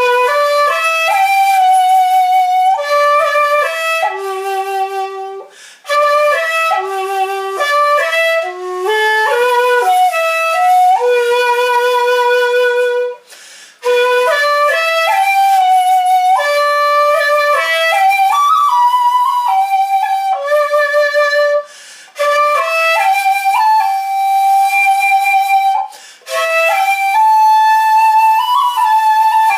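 Ostrich-bone shakuhachi playing a slow melody of long held notes that step up and down, broken by a few short pauses for breath.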